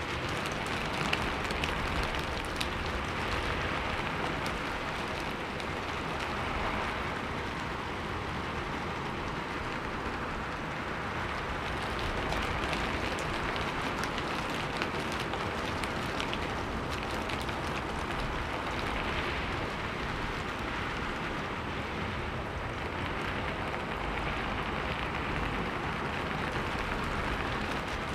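Steady rain falling, a continuous hiss of many fine pattering drops.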